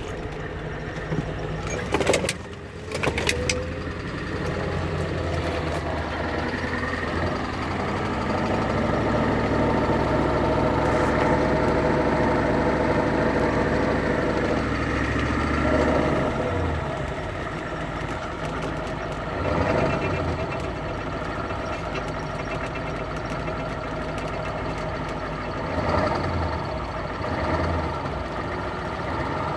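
Car engine with a turbocharger running steadily, louder for several seconds from about a quarter of the way in, with a few sharp clicks about two seconds in and a few short thumps later. The owner is listening to it for signs of a failing turbo.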